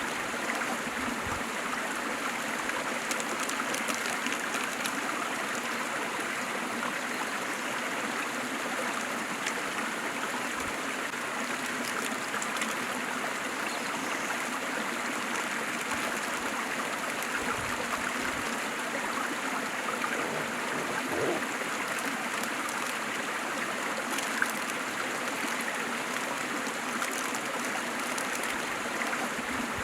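Waterfall: water falling and splashing in a steady, unbroken rush, with a single brief click late on.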